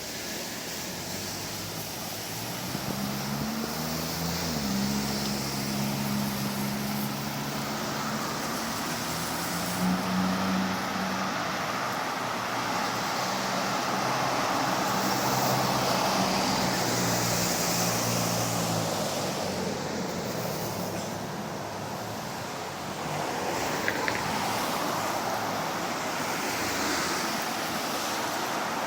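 Street traffic noise with a motor vehicle's engine running close by for most of the first two-thirds, its pitch rising briefly about four seconds in.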